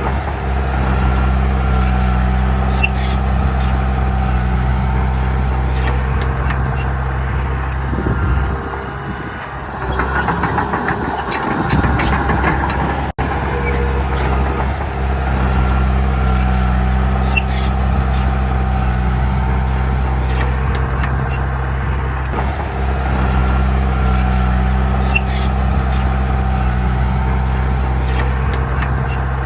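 Heavy diesel engine of earthmoving machinery running steadily, with a deep constant note and light metallic clinks. About a third of the way in the engine note gives way for a few seconds to a rougher, hissing stretch, then the steady running resumes after a momentary drop-out.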